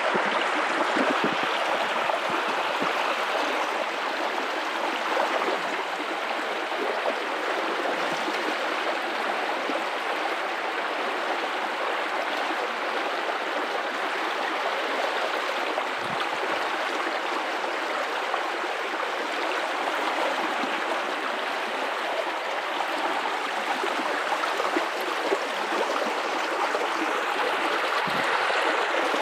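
Guadalupe River water running over rocks, a steady rushing flow with some gurgling.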